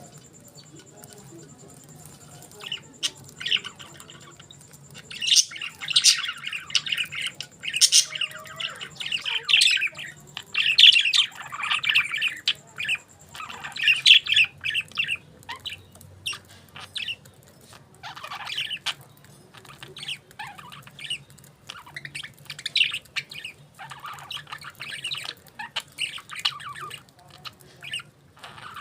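Pet budgerigars chirping and chattering, with scratchy squawks, in irregular bouts that are busiest in the middle and again near the end.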